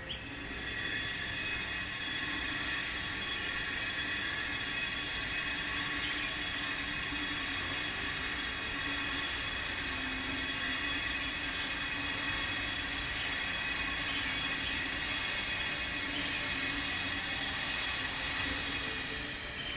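Power grinder running under load on stone: a steady hiss with a high whine. It starts suddenly and runs about twenty seconds before cutting off.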